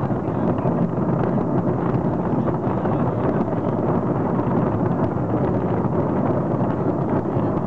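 Dense, continuous fireworks barrage: overlapping booms merge into a steady rumble, laced with fine crackling.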